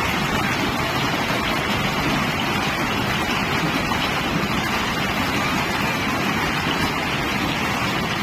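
Loud, steady rushing storm noise.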